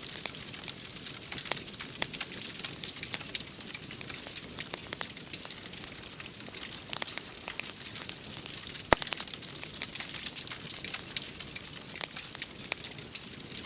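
Wood fire crackling in a fireplace: a steady hiss with irregular small pops and snaps, one sharper pop about nine seconds in.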